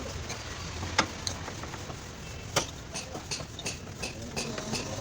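A few sharp knocks, the loudest about a second in and another about two and a half seconds in, over a steady low rumble.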